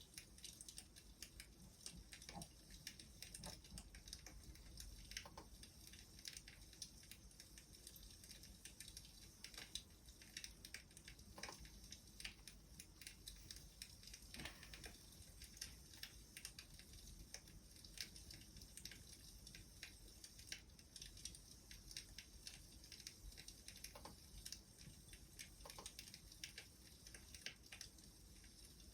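Wood fire crackling faintly, with scattered small irregular pops and snaps over a soft hiss.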